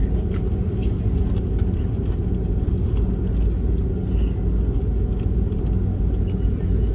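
Steady low rumble of an Airbus A330-300's engines and airframe heard inside the passenger cabin around takeoff, with a few faint rattles.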